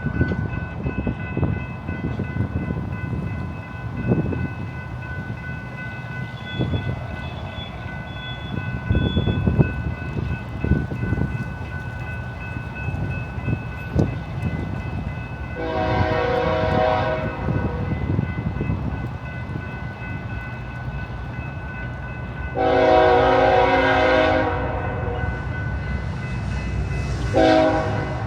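GE Evolution-series diesel locomotive leading a track geometry train, its engine rumbling and wheels clicking over the rails as it rolls slowly by. Its horn sounds three times: one blast about halfway through, a longer one a few seconds later, and a short one near the end.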